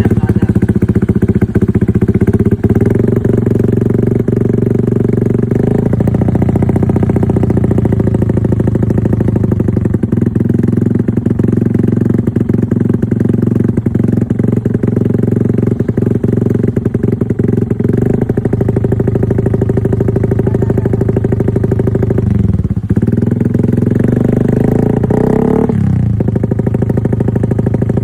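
Honda Vario scooter's single-cylinder engine running at a steady idle through an aftermarket DRS exhaust. Near the end the note dips briefly, then rises in a short throttle rev and drops back to idle.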